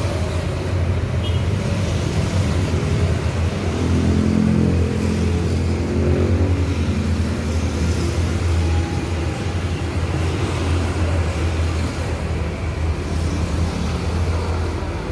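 Motor vehicle engine running, a steady low hum, with a second engine note rising and fading between about four and eight seconds in.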